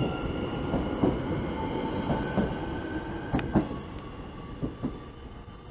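SNCF Z 50000 Francilien electric multiple unit pulling away, its traction equipment giving a few steady electric whines over the rumble of the wheels, with knocks from the wheels over rail joints about once a second. The sound fades from about four seconds in as the train leaves.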